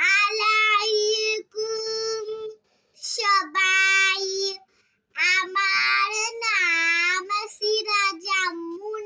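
A child's voice singing a short tune in held notes, in several phrases with brief pauses between them.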